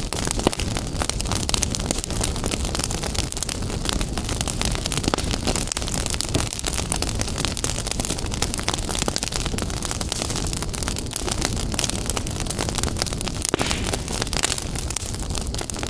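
Fire crackling in a fireplace: many small crackles and pops over a steady low rush.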